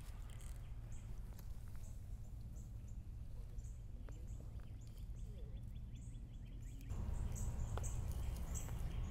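Woodland ambience: birds chirping in short high notes, repeating every second or so, over a steady low rumble that grows a little louder about seven seconds in.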